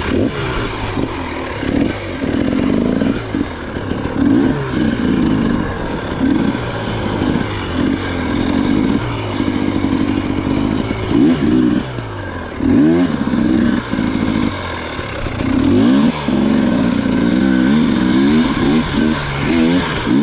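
Dirt bike engine ridden over a rough trail, revving up and falling back again and again as the throttle is opened and closed.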